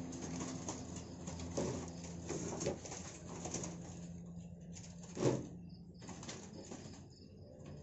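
Wild-caught songbirds in a box or cage: faint scuffling, clicks and calls over a steady low hum, with one short, louder low sound about five seconds in.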